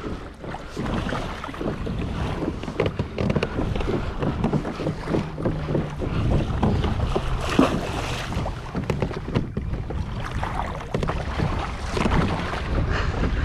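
Wind on the microphone and water sloshing around a kayak, with many scattered short knocks and clicks throughout.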